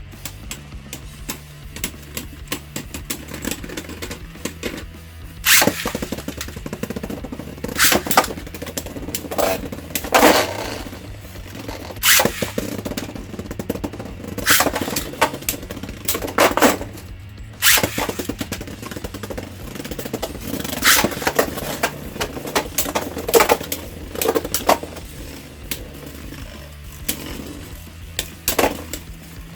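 Two Beyblade Burst spinning tops whirring and scraping around a plastic stadium, clashing with sharp cracks every two to three seconds.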